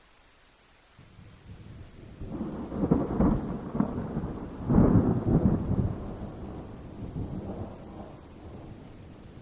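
A rolling thunderclap: a low rumble swells about a second in, peaks twice with loud surges around three and five seconds in, then slowly rolls away.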